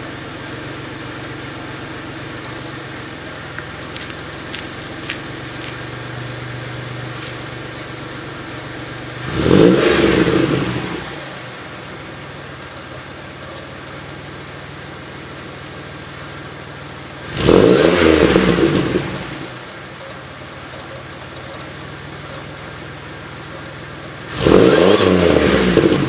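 Engine exhaust idling steadily, with three throttle blips about eight seconds apart; each time the note climbs sharply in pitch and loudness and then falls back to idle.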